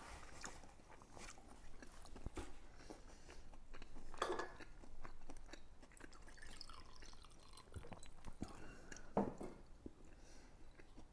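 A person chewing a thick breaded pork cutlet close to the microphone: scattered soft crunches and wet mouth clicks, with a brief murmur of the voice twice.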